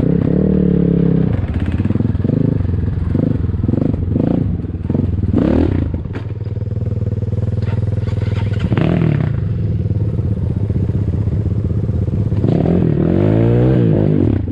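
Ataki DR 250 enduro motorcycle engine running as it is ridden, the revs rising and falling several times, most strongly near the end.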